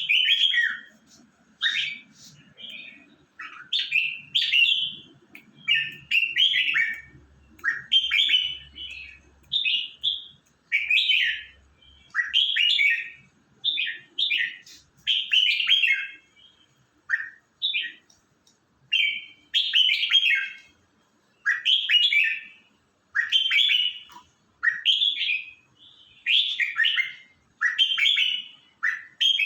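A pet songbird singing short whistled, chirping phrases over and over, about one a second.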